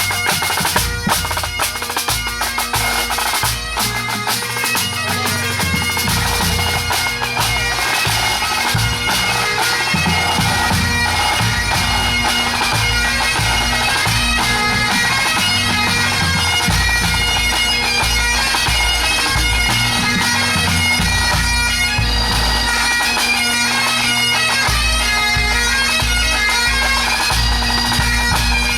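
Scottish pipe band playing a medley: Highland bagpipes with the drones holding one steady low note under the chanter melody, accompanied by the drum corps, whose strikes are thickest in the first few seconds.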